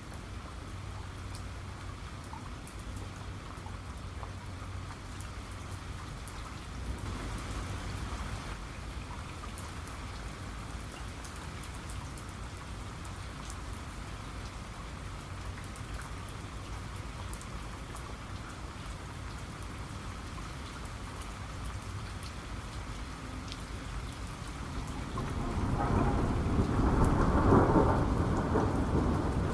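Steady rain with scattered raindrop ticks over a low rumble; about 25 seconds in a roll of thunder builds and grows loud toward the end.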